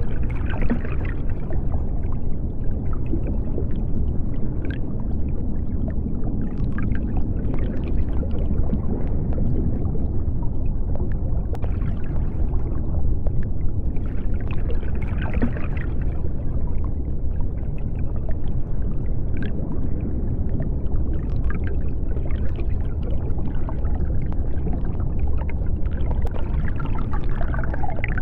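Underwater sea ambience: a steady deep rumble, with gurgling, bubbling swells rising a few times and scattered faint clicks.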